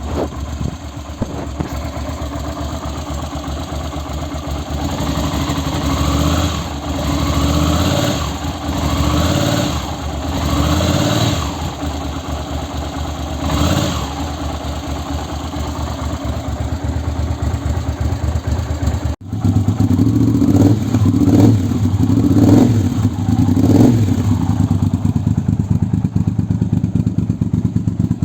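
Yamaha TRX850 parallel-twin engine breathing through an aftermarket Delkevic exhaust: idling, then revved in a series of throttle blips that rise and fall. After a brief break about two-thirds of the way in, the sound comes back louder, with a few quick blips before it settles back to idle.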